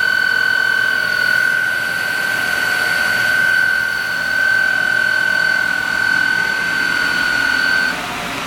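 Reichmann ski tuning machine's wet sander running with a steady high-pitched whine over machine noise. The whine cuts off suddenly near the end, leaving a lower machine hum.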